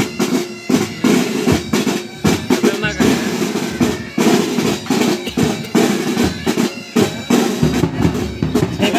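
Military pipe band playing: bagpipes sounding a continuous tune over their drones, with side drums and bass drum beating throughout.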